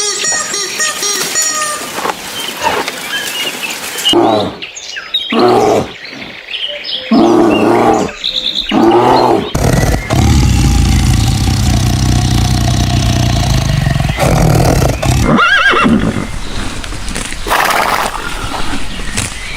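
A run of short recordings of different animals calling, cut one after another. There are several loud separate calls in the first half and a long steady rumbling stretch in the middle.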